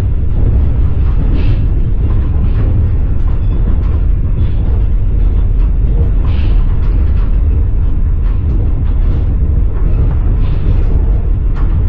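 Passenger train rolling along, heard from inside the carriage: a steady, deep rumble of wheels on rails with scattered clicks and knocks from the wheels over the track.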